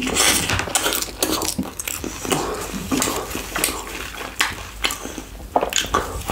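Close-miked chewing and biting of a slice of chicken pizza topped with fries: a dense, irregular run of wet clicks and crackles from mouth and food.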